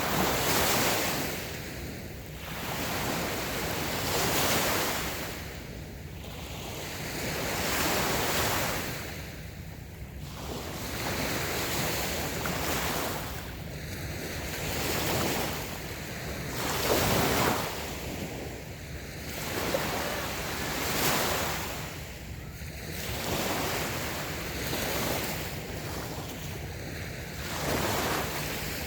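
Small waves washing onto a sandy beach, each wash swelling and fading in turn, about every two seconds.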